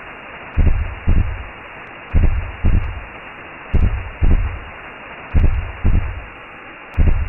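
Recreated womb sound: a slow heartbeat of paired low thumps, repeating about every second and a half, over a steady muffled whooshing hiss.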